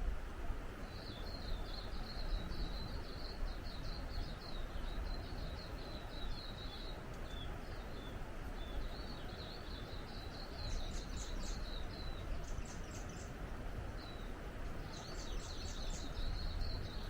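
Steady rush of flowing water with a songbird singing long, twittering high-pitched phrases over it, pausing briefly twice.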